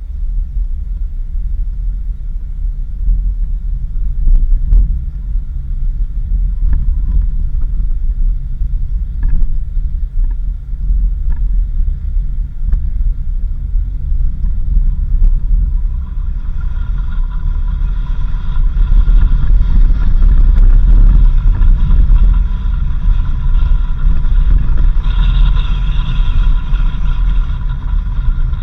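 Vehicle driving on a dirt road: a heavy, steady rumble with scattered knocks from the rough surface. About halfway through, a steady high whine joins it and grows louder near the end.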